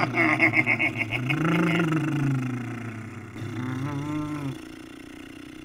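Hot rod engine revving: two revs that rise and fall in pitch, then a low steady hum near the end.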